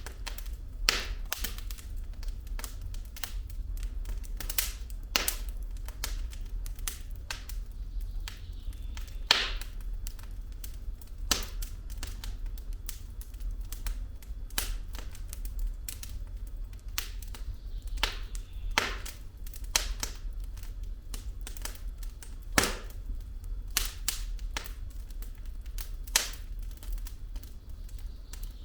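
Wood fire crackling in a fireplace: burning logs give irregular sharp pops and snaps, a few much louder than the rest, over a steady low rumble.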